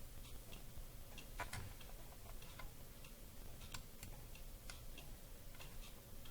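Faint, irregular light clicks, a dozen or so spread unevenly, over a low steady hiss.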